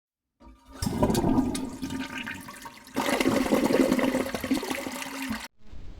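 Rushing water in two stretches, cutting off suddenly near the end.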